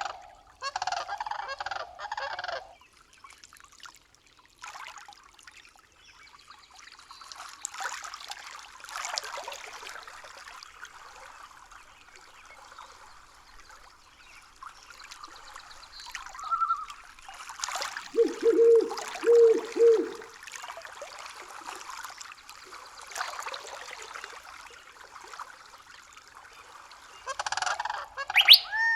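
Birds calling in loud bursts near the start and again near the end, with a steady haze of outdoor background noise between. A short run of three lower calls comes about two-thirds of the way through.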